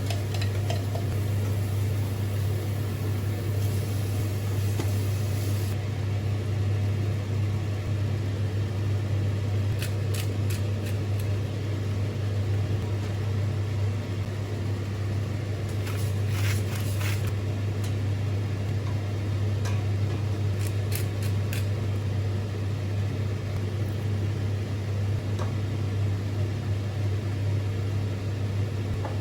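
Steady low mechanical hum with a few faint clicks about a third and two-thirds of the way in.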